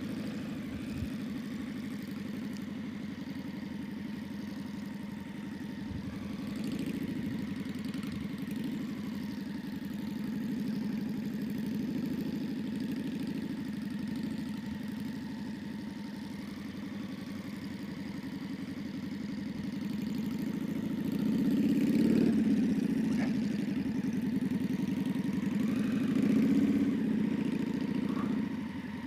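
Motorcycle engine running steadily while riding, with the engine note swelling louder a few times, most strongly twice in the last third.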